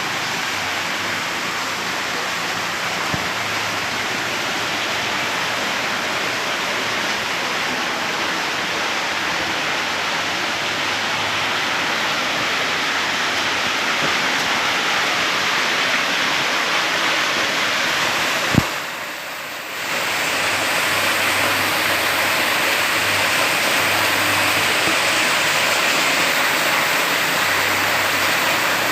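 Steady rushing of falling and flowing water. A single click about two-thirds of the way through, followed by a brief drop in the sound for about a second before the rushing resumes.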